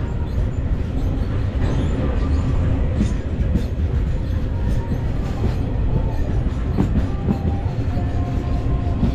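Passenger train running on the rails, heard at an open carriage window: a steady heavy rumble with wheel clatter and knocks, and a thin wheel squeal for a couple of seconds near the end.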